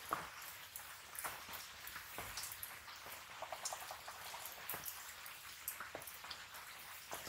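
Red spinach frying in an aluminium wok, with a steady sizzle and many scattered sharp pops and crackles.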